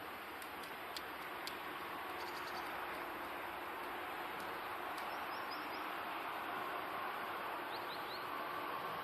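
Steady hiss-like background noise with a few faint, short bird chirps: a quick run of chirps about two seconds in, another near the middle and a rising pair near the end.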